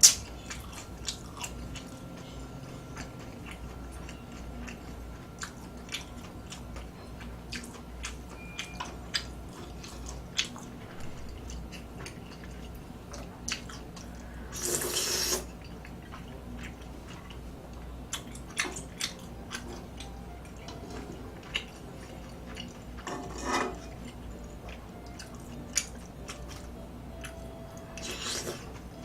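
A person eating: chewing with frequent small wet mouth clicks, and a few short louder noisy bursts, the longest about halfway through.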